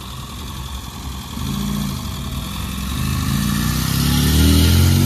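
Small four-cylinder engine of an early Honda Civic hatchback pulling away and accelerating past. The engine note rises, drops briefly about two seconds in, then climbs again and is loudest near the end as the car passes close.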